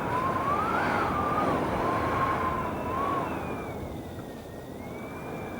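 Strong gusting wind rushing, with a thin whistle that wanders up and down in pitch. About three and a half seconds in the gust eases, the rush gets quieter and the whistle moves higher and fainter.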